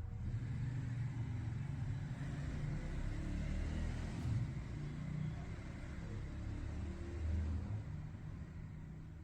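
Dreame H12S wet-dry vacuum running while its ultra mode gets ready: a steady motor hiss that comes on suddenly, over a low, uneven rumble.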